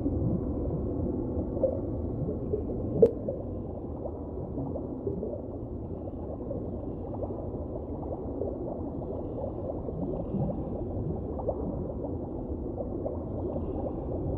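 Water gurgling and bubbling, full of many short rising bloops, with one sharp click about three seconds in.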